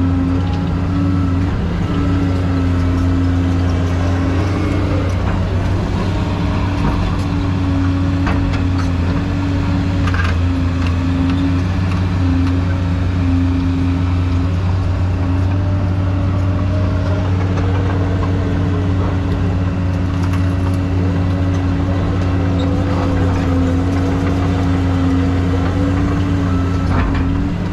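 Excavator's diesel engine running steadily while it works, with a fainter pitch that wavers up and down in the second half and a few brief knocks.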